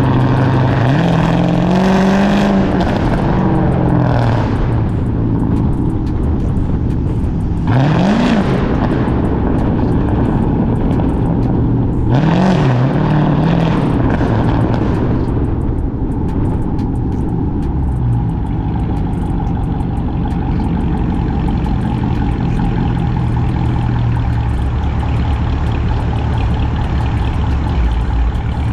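Exhaust of a cammed, catless, straight-piped Chrysler 300C Hemi V8. It accelerates with rising then falling pitch in the first few seconds, gives two quick sharp revs about 8 and 12 seconds in, then settles into a steady drone.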